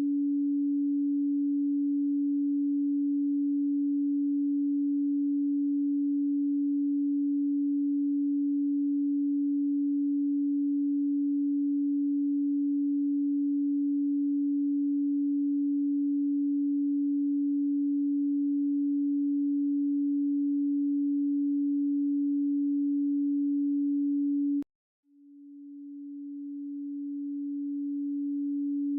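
Pure 285 Hz sine tone held at one steady pitch. About 25 seconds in it cuts out abruptly, then fades back in over the next few seconds.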